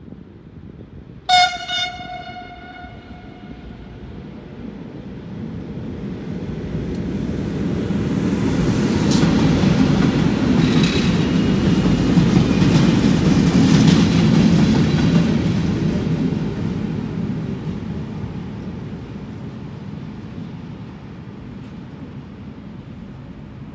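FS E652 electric locomotive hauling the RFI Falco2 track-diagnostic vehicle past: a short horn blast about a second in, then the rumble of the passing train building up, peaking with a couple of wheel clacks over rail joints, and fading away.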